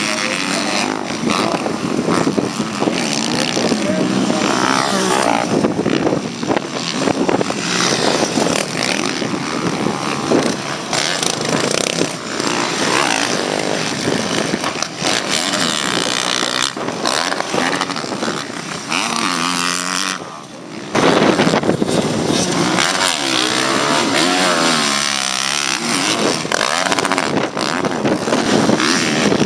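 Motocross bikes racing, their engines revving up and down through the gears in a rising and falling pitch. The sound dips briefly about twenty seconds in, then comes back loud.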